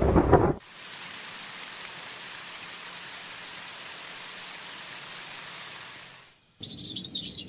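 Steady, even hiss of rain falling for about five seconds, broken off near the end by a short burst of high, wavering chirps.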